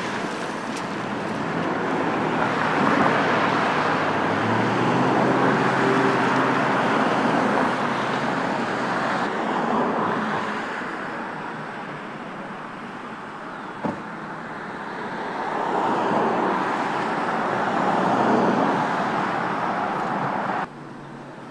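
Road traffic: cars driving past, their tyre and engine noise swelling and fading several times, with a short tick about two-thirds of the way through. The sound drops off suddenly near the end.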